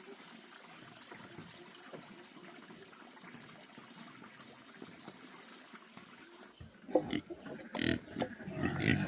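Water trickling faintly and steadily. About seven seconds in, this gives way abruptly to pigs grunting and squealing loudly.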